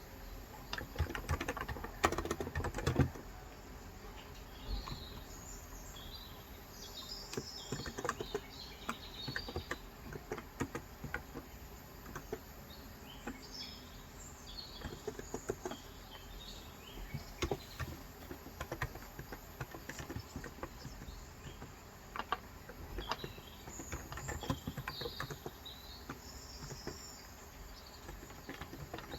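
Typing on a Cox Endeavor tenkeyless electrostatic capacitive keyboard with 35 g switches, keystrokes coming in irregular runs, loudest about two to three seconds in. Birds chirp in the background.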